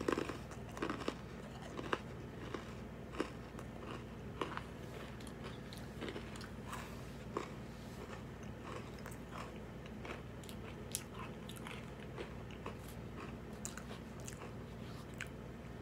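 A person biting into and chewing small vanilla-cream sandwich cookies (Easter egg Oreos), with scattered small crunches and mouth clicks.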